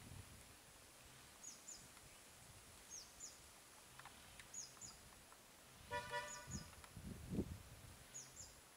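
Faint outdoor ambience. A bird repeats a short, high two-note chirp about every second and a half. About six seconds in comes a brief horn-like toot, followed by a couple of low thuds.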